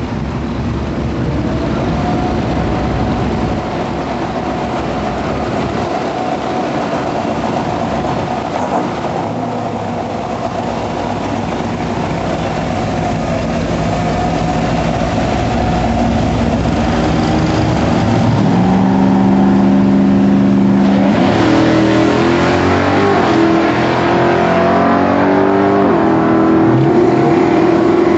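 Turbocharged 383 Windsor stroker V8 of a 1995 Ford F-150 Lightning pickup running under throttle, growing steadily louder, with the engine note climbing and dropping several times in the second half.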